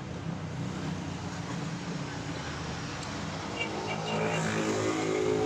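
A motor vehicle engine running close by, with its engine note rising and getting louder in the last second or so.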